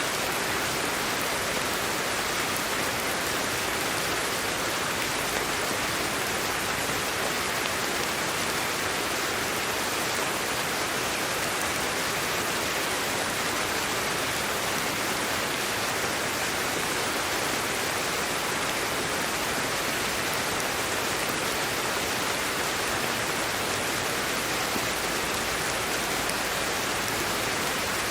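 Steady sleep-aid white noise: an even, unchanging hiss with no breaks, weighted toward the high end.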